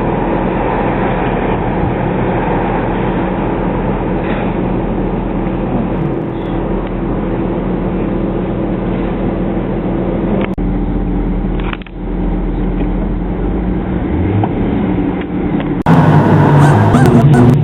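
Car engine running with a steady drone, broken by two brief dropouts partway through; near the end a louder engine sound takes over.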